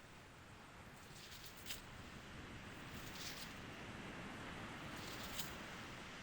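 Green turtle's flippers scraping and flinging sand as she covers her nest: a few soft scratchy crackles over a faint, steady hiss.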